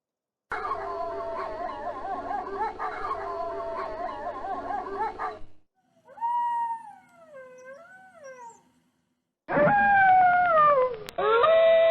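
Wolves howling. First comes a chorus of several overlapping, wavering howls, then a lone howl that glides down and back up, and near the end a loud howl falling in pitch, followed by a long, steady one.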